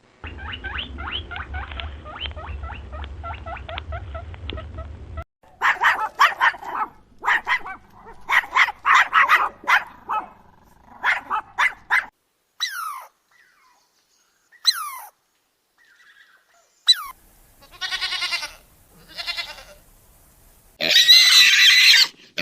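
A sequence of different domestic animal calls, one animal after another: a rapid pulsing call for about five seconds, a run of short sharp calls, then a few quick falling squeaks, and a loud call near the end.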